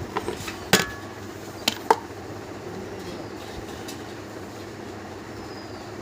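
Several sharp metallic knocks, the loudest two ringing, in the first two seconds, over a steady mechanical hum.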